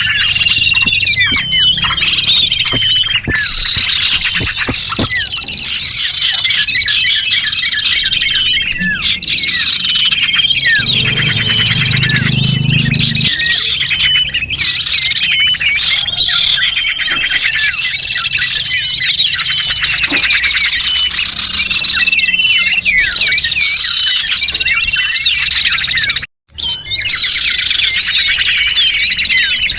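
A dense chorus of small songbirds used as a bird-trapping lure call: many overlapping high-pitched chirps, twitters and trills without a break, apart from a brief cut to silence about 26 seconds in.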